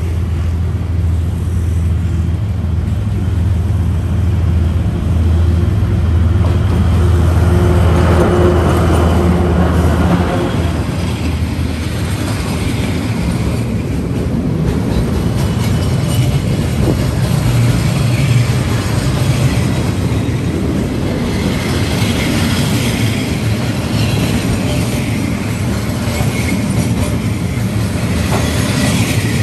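Diesel-hauled container freight train passing close on the rails. A steady low engine drone is strongest for the first ten seconds or so. It then gives way to the continuous rumble and clatter of the container flatcars' wheels rolling over the track.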